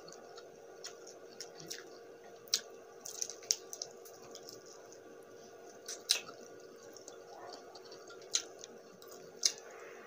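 Close-miked wet chewing and lip-smacking of sauce-coated spicy buffalo wings and rice, with irregular sharp sticky clicks from the mouth. A faint steady hum sits underneath.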